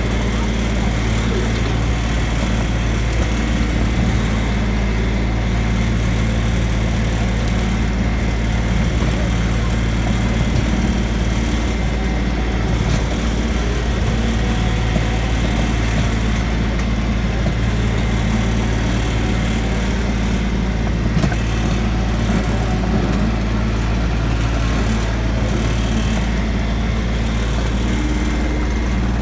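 Tractor engine running steadily, a loud, constant low drone with no change in pace.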